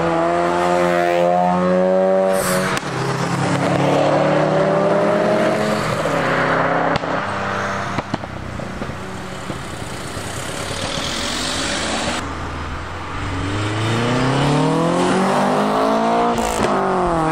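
Modified cars' engines running and revving as they drive off, one after another. There is a quieter stretch in the middle, then an engine climbs in revs near the end.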